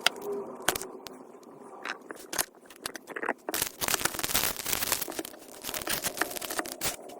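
Packing-material handling noises: crinkling and scraping as bags and items are handled, with scattered clicks and knocks, busiest around the middle.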